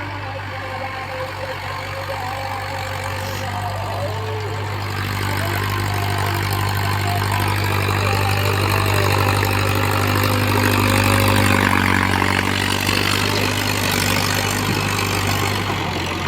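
Mahindra tractor's diesel engine running steadily, growing louder through the middle and easing off near the end.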